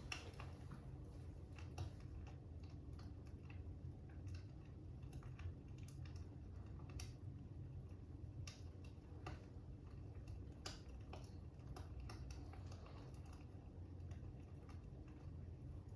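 Faint fire crackling: small pops and crackles at irregular intervals over a low steady rumble.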